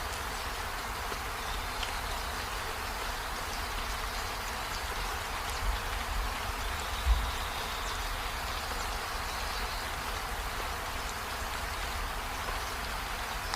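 Steady rain hissing, with faint scattered drop ticks and a low rumble underneath; a brief low thump about seven seconds in.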